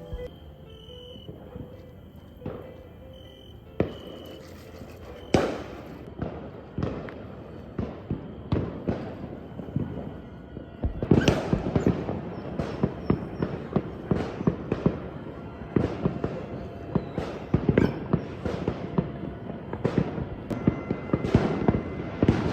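New Year fireworks and firecrackers going off: scattered pops at first, then a dense, rapid string of bangs from about halfway through.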